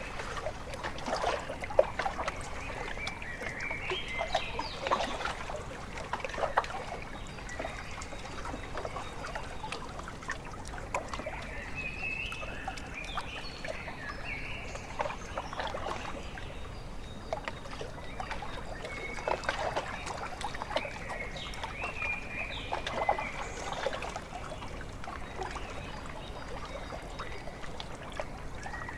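Small waves lapping and splashing irregularly at a lakeshore, with birds calling in short chirping bursts several times over the water sounds.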